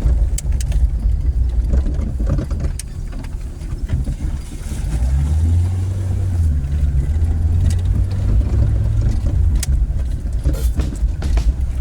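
Car on the move: a steady low engine and road rumble that grows stronger for a few seconds in the middle, with scattered clicks and knocks over it.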